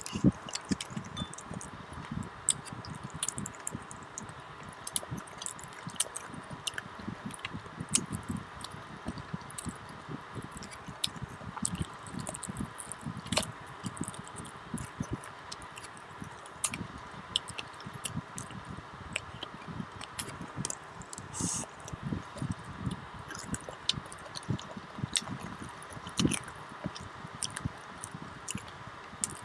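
Close-up eating sounds of spicy mutton paya curry and rice taken by hand: wet chewing, biting and lip smacks on the meat and trotter bones, with many small sharp clicks from the mouth.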